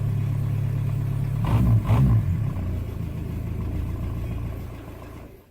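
Small pickup truck's engine running steadily, with a brief rev about a second and a half in, then fading away near the end.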